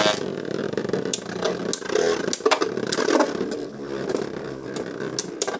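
Two Beyblade Burst tops spinning and clashing in a plastic stadium: a steady whir with many sharp, irregular clicks where they hit each other and the stadium wall.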